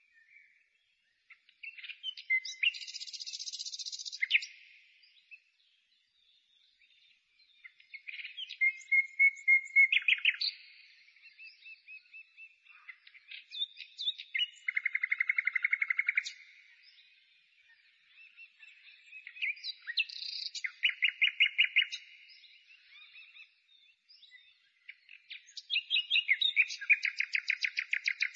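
A songbird singing a run of varied phrases: rapid trills, chirps and buzzy strings of quick repeated notes, each phrase a second or two long with short pauses between them.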